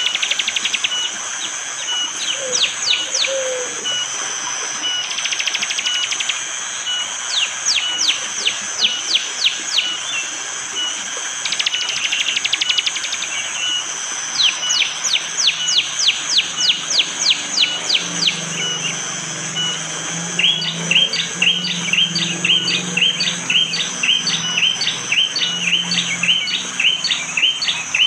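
Prenjak jali bird giving its sharp, hard 'tembakan' call: bursts of quick falling chip notes alternating with short buzzy trills, then, about two-thirds of the way in, a fast even string of repeated notes. A steady hiss of running water lies underneath.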